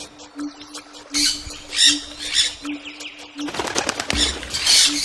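Birds calling in short, sharp, high calls that repeat every half second to a second, over a steady low pulsing tone.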